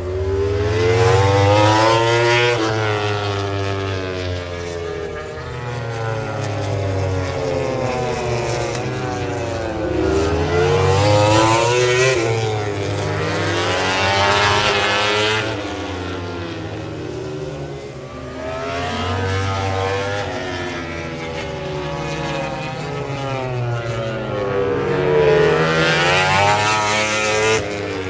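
MotoGP racing motorcycles passing on the track one after another, their engines revving up and down through the gears. The pitch rises and falls as each bike goes by.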